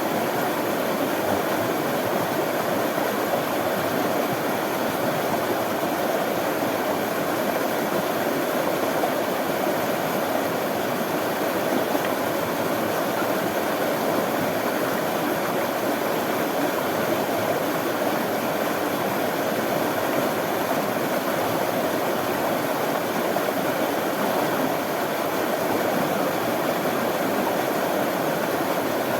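Running water, a steady even rush with the most energy in the mid range, unchanging throughout.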